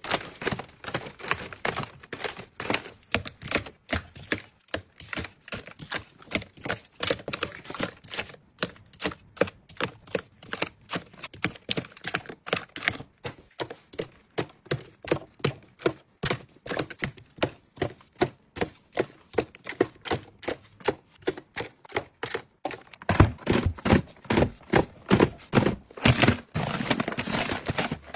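Close-up tapping and clicking, several sharp taps a second in an uneven run. The taps become louder and deeper for the last few seconds.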